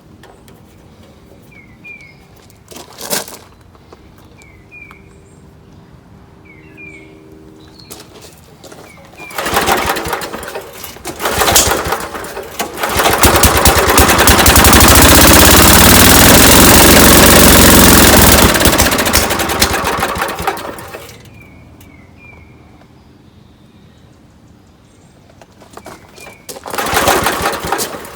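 Small gas engine of a portable air compressor starting after a couple of tries, running loud for several seconds and then dying out, with its carburettor main jet just backed out about one and a half turns. Another loud start attempt comes near the end, and birds chirp in the quiet stretches.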